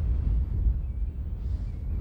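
Wind buffeting the microphone, a heavy, uneven low rumble.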